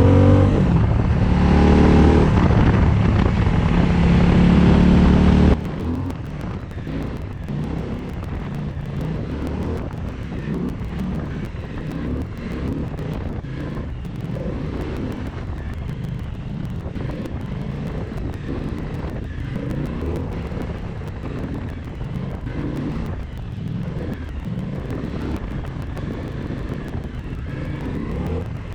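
Suzuki V-Strom 1050XT's V-twin engine running under way, heard loud with road noise. About five seconds in it cuts off abruptly to a quieter, steady rush of wind and road noise.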